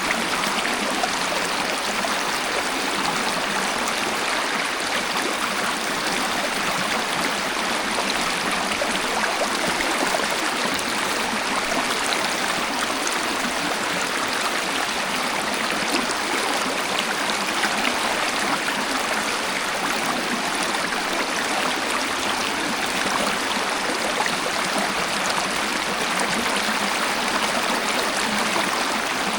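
Waterfall: a steady, even rush of falling and flowing water, with little deep rumble and no changes.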